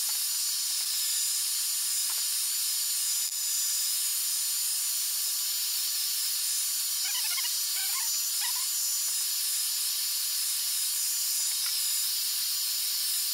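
Hot-air blower running steadily, a constant airy hiss with a thin high whistle, heating the iPad 2's glass to soften the digitizer adhesive. A few faint chirps come about seven to eight and a half seconds in.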